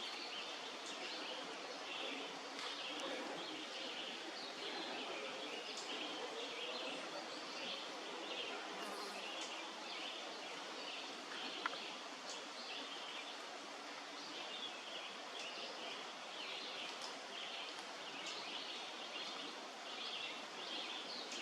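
Faint outdoor ambience: a steady soft background hiss with small high chirps that come and go, and a single sharp click about twelve seconds in.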